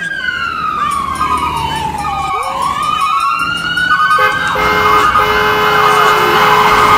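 Ambulance siren wailing in a slow glide, its pitch falling for a couple of seconds and then rising again. About four seconds in, a louder, steadier sound with several held tones joins it.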